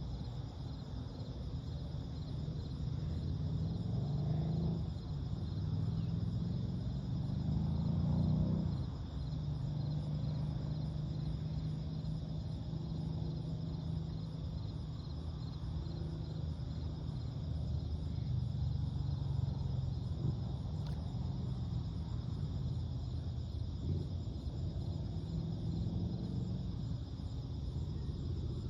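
Chorus of night insects chirring in steady pulsing bands, over a low rumble of distant road traffic. A vehicle's engine rises in pitch about seven to eight seconds in, then drops away suddenly.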